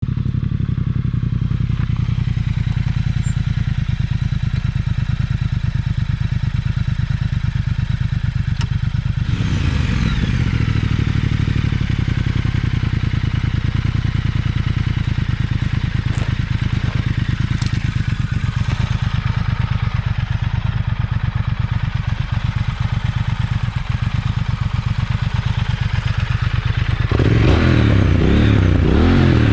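Triumph Speed Twin 1200's parallel-twin engine idling with a steady pulse, blipped once about nine seconds in, then revved repeatedly near the end.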